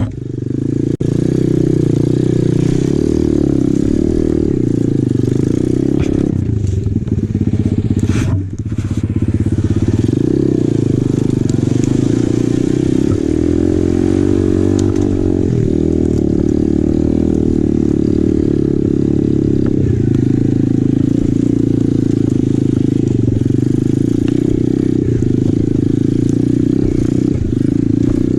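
Apollo RFZ 125cc pit bike's single-cylinder four-stroke engine running under load, with the throttle easing off briefly about half a second in and again around eight seconds in.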